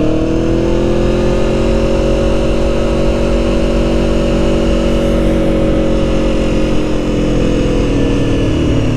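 Aprilia Tuono motorcycle engine under way, its pitch rising for about the first second as it pulls, then holding steady at cruise and easing off slightly near the end.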